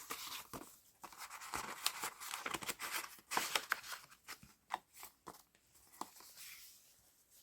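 Paper rustling and crinkling, with small clicks and taps, as the pages, tags and index cards of a handmade junk journal are turned and handled; the rustling dies down near the end.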